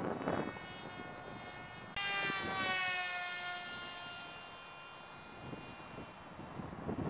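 Twin-boom pusher RC airplane's motor and propeller whining in flight: it jumps suddenly louder about two seconds in as the plane passes close, then drops in pitch and fades as it flies away. Wind buffets the microphone at the start and near the end.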